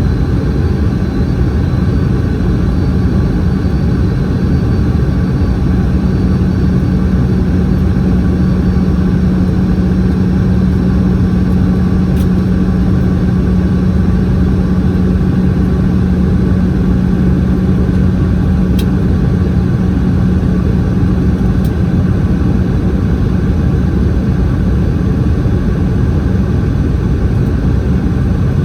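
Steady in-cabin noise of a Boeing 717 in flight, heard from a rear window seat: air rush and the tail-mounted Rolls-Royce BR715 turbofans. A steady low hum runs through it and fades out about 22 seconds in.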